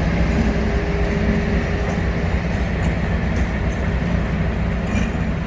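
Class 56 diesel locomotive engine running with a steady low drone as the locomotive moves off light engine.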